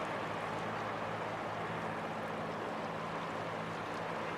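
Fast-flowing floodwater of a river rushing steadily, with a low, steady hum underneath that fades near the end.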